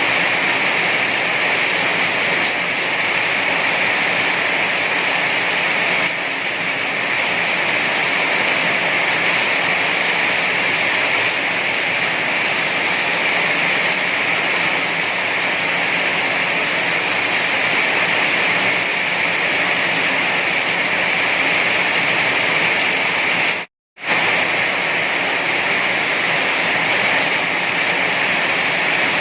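Steady, dense hiss of heavy rain falling without a break. The sound cuts out completely for a split second about three-quarters of the way through, then resumes unchanged.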